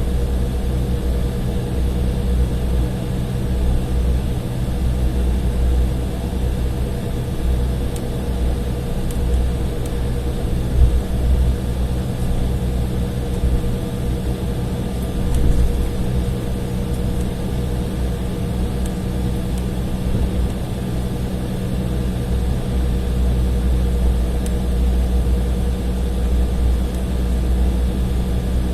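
Inside the cabin of an Embraer E175 on the ground, its two turbofan engines running at low taxi thrust: a steady engine hum with a constant mid tone over an uneven low rumble.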